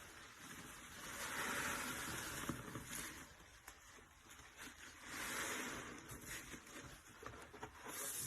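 A sponge soaked in soapy detergent and cleaner being squeezed: wet, foamy squishing that swells twice with a fine crackle of bubbles, and a third squeeze starts near the end.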